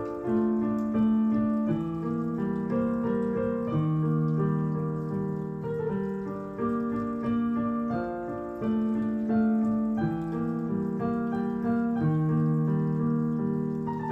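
Piano playing a slow, flowing melody over held notes, the phrases rising and falling in regular waves.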